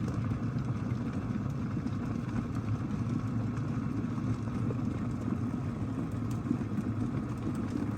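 Water at a full rolling boil in an OXO glass electric kettle: a steady, even bubbling noise as the kettle keeps heating.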